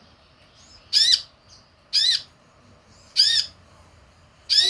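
Sunbird calling: four short, sharp calls about a second apart, each rising and then falling in pitch.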